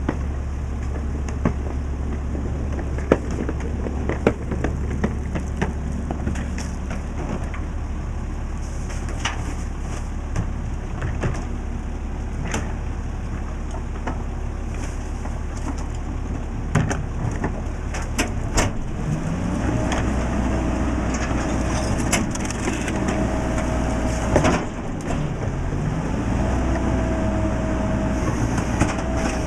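Mack LE garbage truck's diesel engine running, with scattered knocks and clatters of trash going in. About two-thirds of the way in, the engine revs up and a steady hydraulic whine rises and holds as the compactor cycles; it breaks briefly, then rises again near the end.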